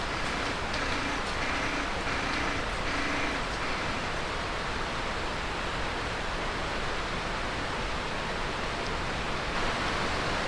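A steady hiss, with a run of about six short, faint, evenly spaced chirps over the first few seconds.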